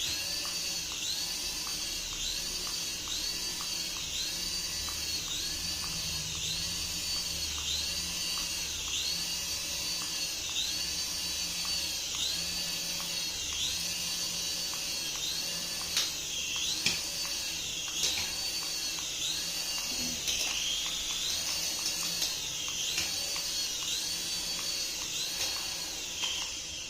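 Battery-powered toy running: a steady high whine with an electronic warbling tone that repeats about once a second, a few clicks, and everything dropping away near the end.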